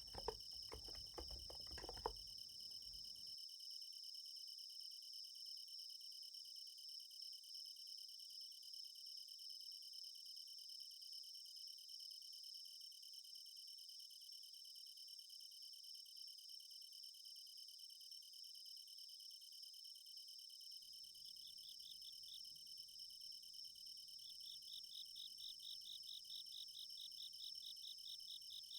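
A steady chorus of night-singing insects, crickets among them, in high, thin ringing tones. It is joined by a pulsing trill after about 21 seconds and again for the last few seconds. A few soft keystrokes from a Niz Plum x108 electrostatic capacitive keyboard sound in the first two seconds, then stop.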